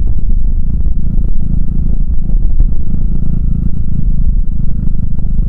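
Honda Fusion big scooter's single-cylinder four-stroke engine running steadily under way, low and rumbling, with a light clatter over it that the owner puts down to a muffler coming loose.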